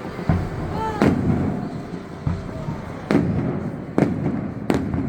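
Aerial fireworks bursting: about five sharp bangs, each followed by a rolling rumble, three of them close together in the last two seconds.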